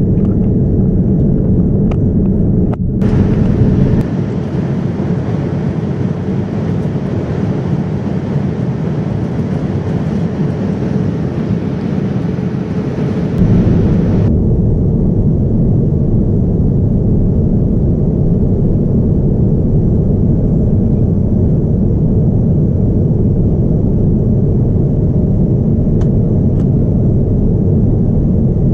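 Jet airliner cabin noise aboard a Boeing 787-9: a steady low rumble of engines and airflow. A brighter rushing hiss joins about three seconds in and cuts off abruptly about ten seconds later.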